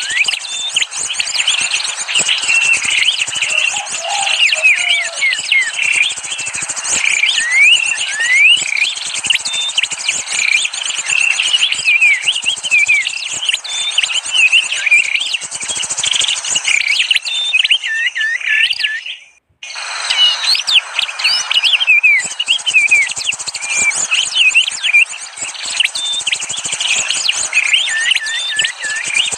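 Bird-lure recording of a crowd of small birds chirping rapidly over one another in short rising and falling chirps, over a steady high insect buzz. The whole sound cuts out for a split second about two-thirds of the way through.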